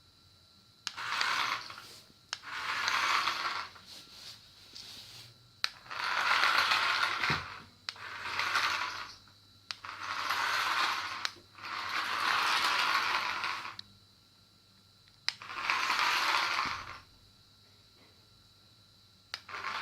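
Radio-controlled toy airplane's small geared motor whirring in short bursts as it drives forward and back, each burst one to two seconds long and starting with a click, about seven times with quiet pauses between.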